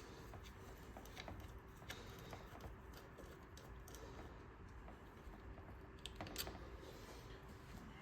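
Faint, scattered light clicks and taps of hand tools on a small engine as a fastener is worked loose, with one louder click about six seconds in, over a faint steady hum.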